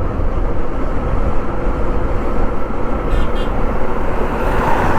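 Motorcycle engine running steadily while riding, with dense wind and road noise on the mic.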